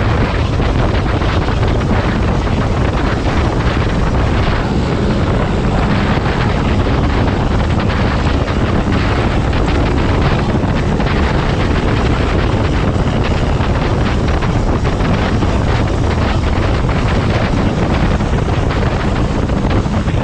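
Steady wind rush over the microphone on a moving motorcycle, with the engine running underneath.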